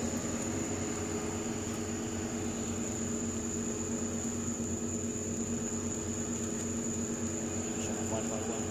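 Steady mechanical hum with a few low steady tones and a thin high whine above them, even throughout.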